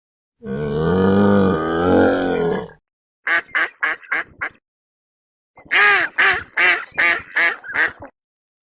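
A long animal call with a wavering pitch, then duck quacking in two quick runs of short calls, about five and then about seven. The runs are separated by abrupt cuts to silence.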